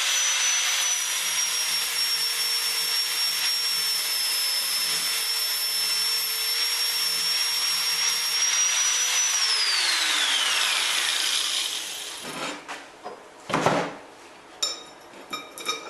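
Angle grinder with a flap disc running at steady speed under grinding. About nine seconds in it is switched off and its whine falls as it spins down, followed by a few short knocks and clinks.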